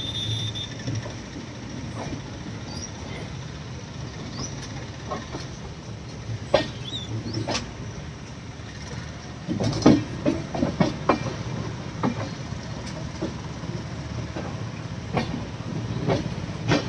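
Indian Railways passenger coach rolling slowly under a steady low rumble, its wheels clicking over rail joints and points. The clacks come singly every second or two, with a quick cluster of them about ten seconds in.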